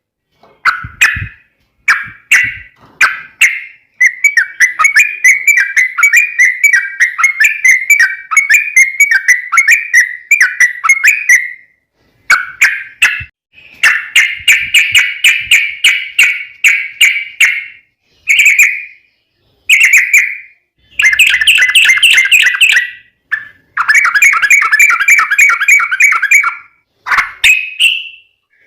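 Yellow-vented bulbul (trucukan) singing a long, rapid, rolling chatter of repeated notes. It comes in several bouts separated by brief pauses.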